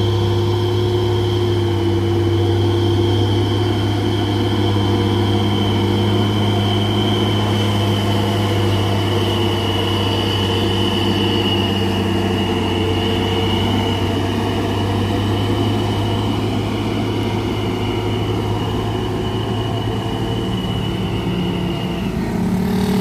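Heavy truck's diesel engine running steadily as it climbs a steep grade, with a high steady whine over it that stops near the end.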